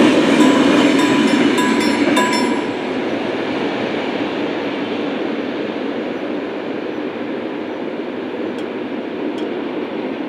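Tail end of a freight train passing over a level crossing: wheel clicks and a ringing tone stop about two and a half seconds in, leaving the steady rumble of the departing train.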